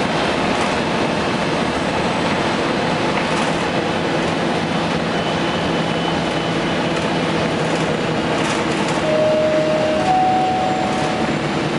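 A 2004 Gillig Phantom transit bus under way, its Cummins ISM diesel and Voith D864.3E automatic transmission running steadily with road noise. Near the end two short steady tones sound one after the other, the second a little higher.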